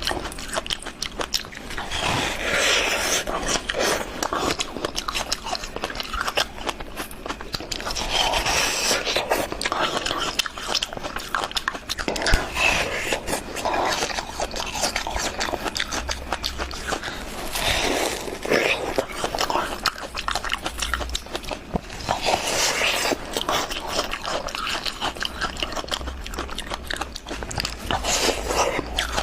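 Close-miked ice being bitten and chewed: a crisp crunch every few seconds, with crackling chewing between bites.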